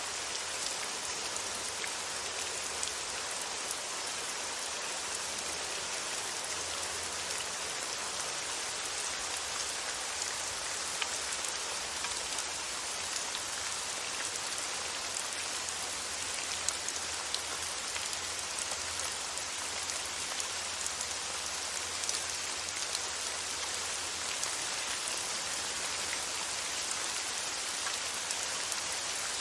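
Steady rain falling, an even hiss of many drops with scattered small individual drop ticks.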